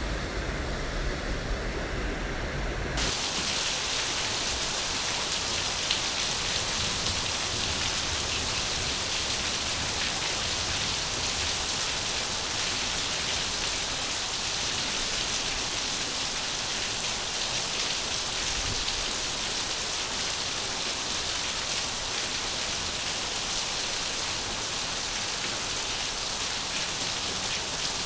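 Steady rain falling, an even hiss of many drops. About three seconds in the sound shifts from a deeper rushing of water to the brighter rain.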